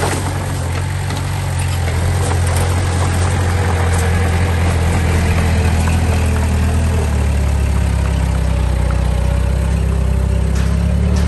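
Diesel engine of a working earthmoving machine running steadily, with a low hum that shifts in pitch about seven seconds in.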